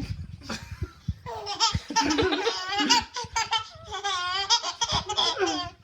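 A little girl laughing hard in repeated bursts after tasting sour lemon juice.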